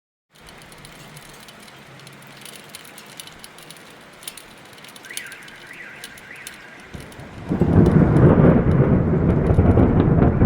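Steady rain falling with scattered drop ticks, then about seven seconds in a loud rolling peal of thunder that keeps rumbling.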